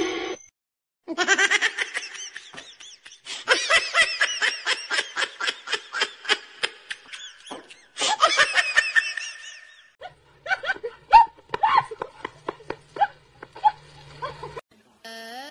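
Hard, rapid peals of laughter in several bursts with short breaks between them. After them come a few scattered clicks and knocks.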